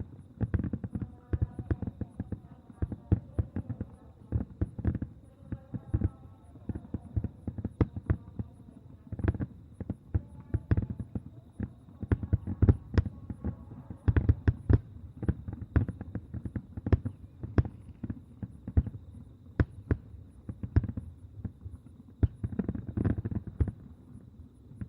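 A fireworks display going off, with many sharp bangs and crackles in rapid irregular succession, heaviest about halfway through. Crowd voices can be heard early on.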